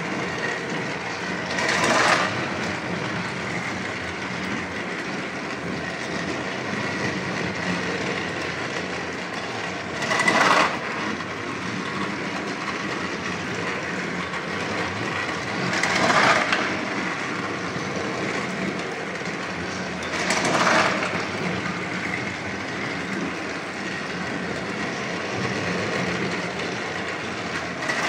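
Battery-powered Thomas & Friends Trackmaster toy train engines running around plastic track: a steady motor whir and wheel clatter that swells louder briefly four times.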